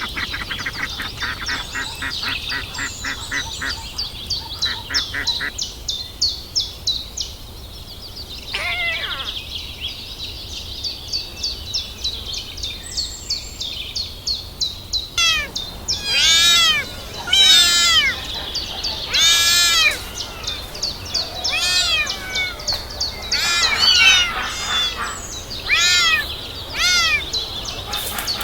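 Several young kittens mewing for their mother's milk: loud, high, rising-and-falling cries that overlap through the second half. In the first few seconds a rapid run of short, high peeps comes several times a second.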